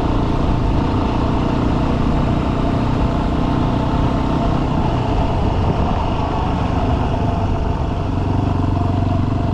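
Dirt bike engine running at a steady, moderate speed while riding, with small rises and falls in pitch.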